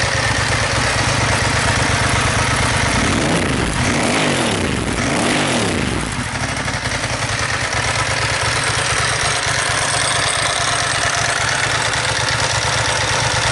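A 2000 Ducati ST4's 916 cc Desmoquattro V-twin engine idling, revved up twice in quick succession a few seconds in, its pitch rising and falling, then settling back to a steady idle.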